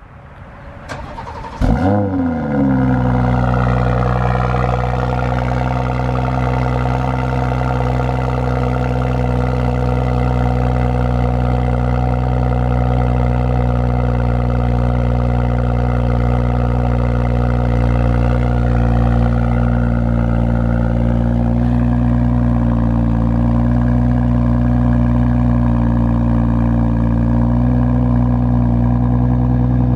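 2018 BMW X3 M40i's turbocharged 3.0-litre inline-six starting from cold: it fires about two seconds in with a brief rev flare, then settles into a steady cold idle through the exhaust.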